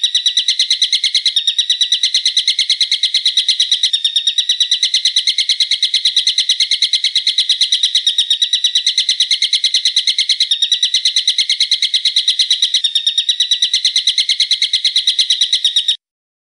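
Bird call used as a song-tutor (masteran) track: a loud, shrill, fast, even series of sharp notes, looped so it runs on without pause and cuts off abruptly near the end.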